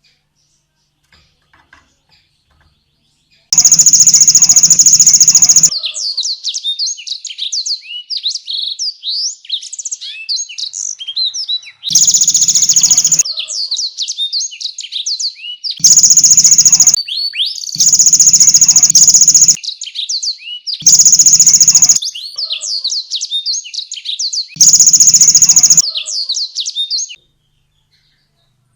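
Canary singing a fast, varied song of high chirps and trills. Six times it breaks into very loud, distorted bursts of about one to two seconds each. The song starts a few seconds in and stops shortly before the end.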